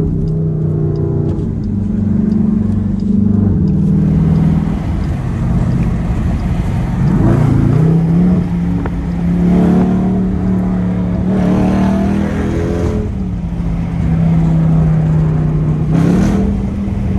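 Straight-piped Dodge Durango SRT's 6.4-litre Hemi V8 exhaust under way, the engine note mostly steady and climbing in pitch about seven seconds in and again near the end.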